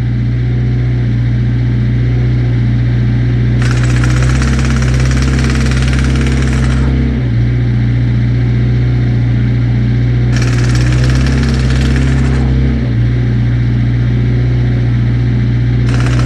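A large engine idling steadily throughout. Three bursts of harsh, rattling high noise, each two to three seconds long, come over it about six seconds apart.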